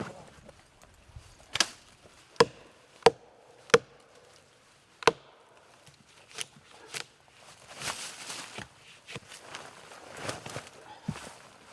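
Wood being chopped with a blade: a series of sharp, separate chops at uneven intervals, followed by stretches of rustling and scraping.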